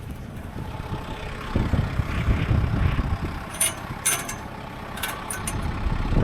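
Tractor loader engine running steadily in a low rumble, with a few sharp clicks past the middle.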